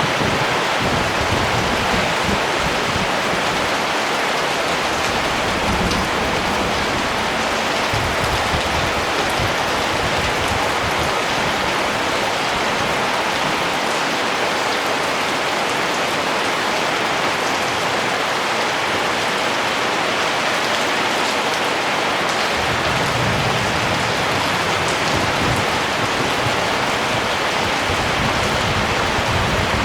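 Steady rain falling, an even hiss of drops landing on surfaces. A low rumble joins in about two-thirds of the way through.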